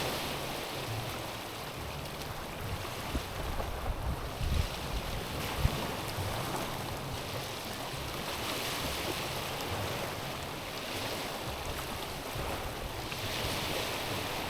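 Small waves washing onto a stony shore, the hiss of water swelling and falling back every two to three seconds. Wind rumbles on the microphone underneath.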